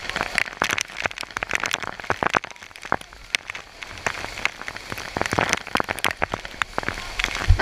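Heavy storm rain pelting down, a dense steady hiss with many sharp drop strikes close to the microphone.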